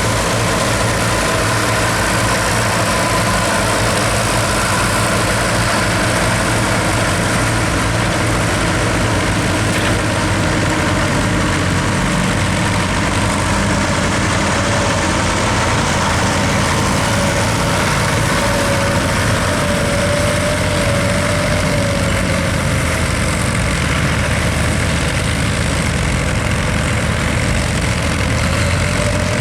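Diesel tractor engine running steadily, its heavy, low note holding an even pitch.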